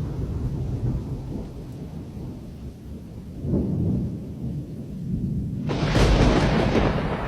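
Rushing floodwater, a deep steady rumble that swells about three and a half seconds in, then turns suddenly louder with a hiss about a second and a half before the end.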